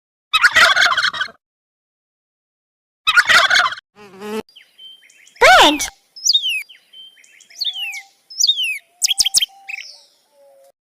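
A turkey gobbling in two bursts, then a small bird calling in a string of short chirps and whistled notes that slide downward.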